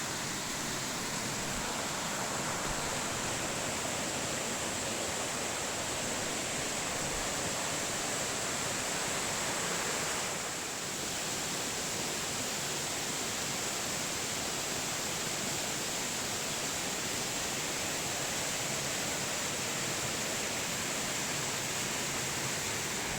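Small waterfall splashing and rushing: a steady, even hiss of falling water.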